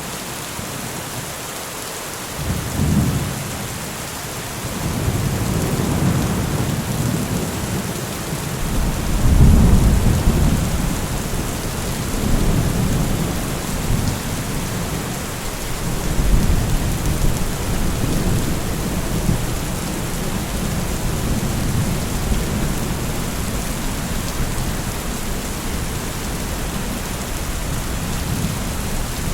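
Steady rain with rolling thunder: a short low rumble about three seconds in, then long rumbles swelling and fading, the loudest around ten seconds in.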